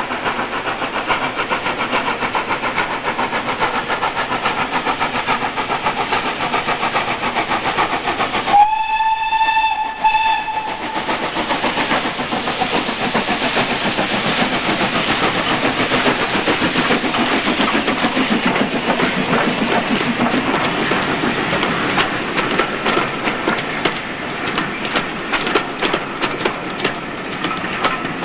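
Steam locomotive working a train past, its exhaust beats steady. A steam whistle sounds about a third of the way in for about two seconds, with a brief break. Carriage wheels then click over the rail joints as the train goes by.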